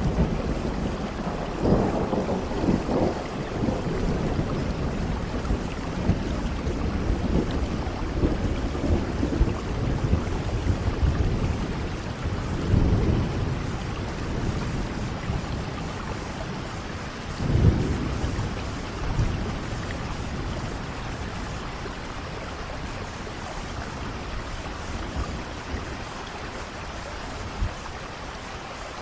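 Steady rain falling with rolling thunder: several low rumbles and cracks through the first two-thirds, the loudest about 17 seconds in, after which the thunder dies away and the rain carries on alone.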